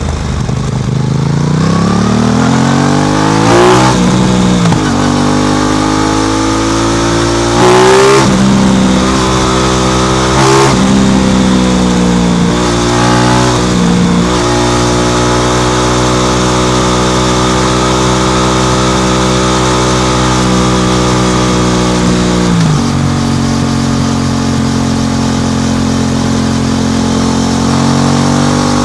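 Aprilia RS660's parallel-twin engine through an SC Project exhaust, accelerating up through the gears. Its pitch climbs and drops back at each of four shifts, then holds a steady cruising note. Late on the pitch steps down once and settles at a lower steady note.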